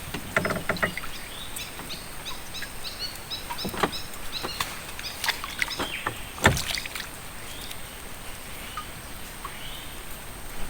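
A bird calling a quick series of short, repeated high notes, over a thin steady high tone. A few sharp knocks come through, the loudest about six and a half seconds in.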